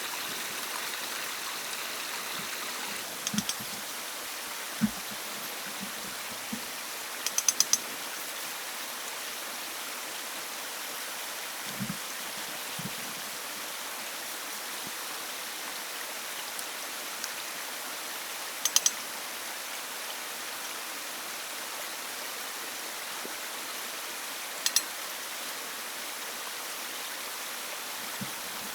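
Steady rushing of a forest stream, with a few scattered sharp clicks or knocks, including a quick run of three or four about a quarter of the way through.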